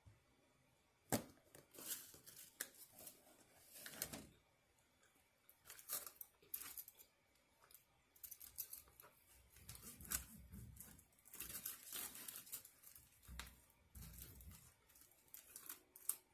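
Quiet handling of takeout food packaging during a meal: scattered crinkling and tearing-like rustles with sharp clicks, and two spells of dull low thumps in the second half.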